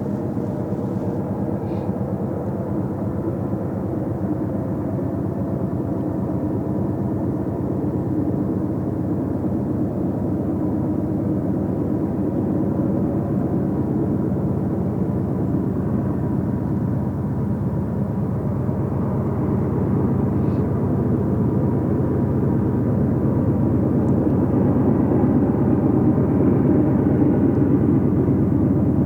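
Passing train, a steady low noise that grows gradually louder.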